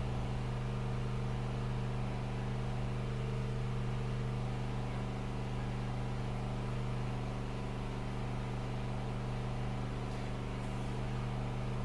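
Steady low hum with no change in pitch or level, from a running machine or electrical noise on the recording line.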